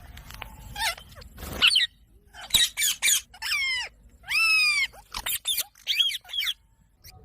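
Indian ringneck parrot calling: a run of short, sharp calls, with one longer arching call about halfway through.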